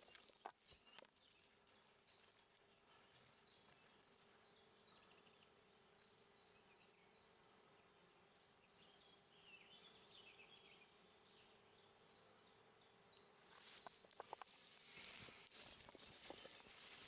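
Near silence: faint outdoor ambience with a low steady hum and a few faint chirps about halfway through, then a louder hiss with some clicks near the end.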